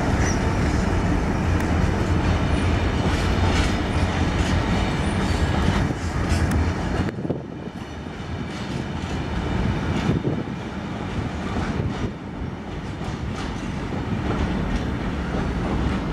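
Freight train pulling out and rolling past, its wagons' wheels clattering over rail joints. A heavy low rumble drops away about seven seconds in, leaving lighter wheel and wagon noise.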